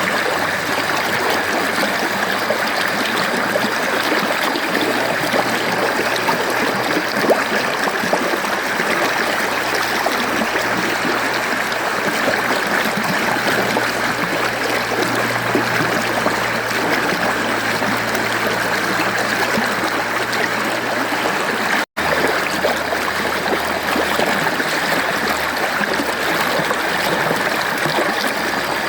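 Mountain stream flowing and splashing over rocks in a steady rush of water, with a split-second dropout in the sound about three quarters of the way through.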